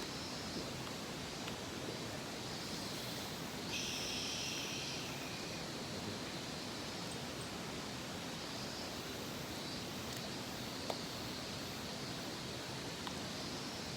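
Mountain stream water running steadily with an even rush. About four seconds in, a brief high-pitched call with several stacked tones lasts about two seconds.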